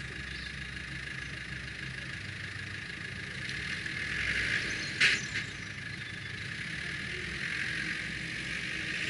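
Car engine idling steadily, with one sharp knock about five seconds in.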